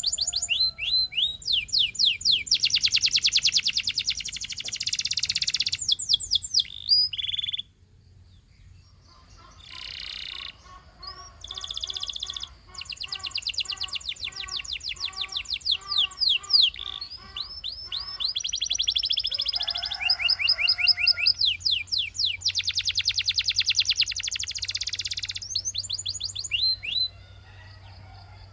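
Domestic canary singing: long rolls of rapid, high repeated notes and quick falling whistles, with a short pause about eight seconds in.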